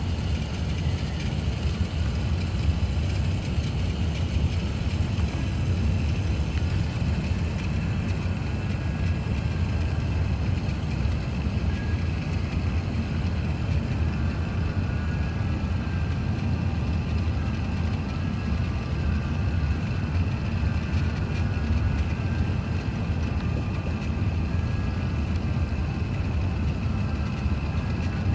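Steady cabin noise inside an Airbus A380: a low, even rumble of engines and airflow with faint steady tones above it, heard from the rearmost seat.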